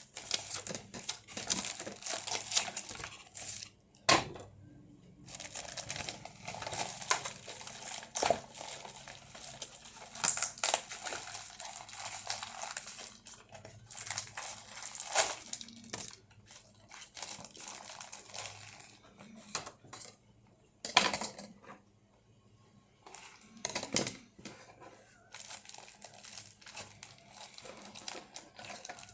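Crinkling and rustling of plastic and cardboard toy packaging being handled and pulled apart during unboxing, in irregular bursts with a few sharp snaps or knocks.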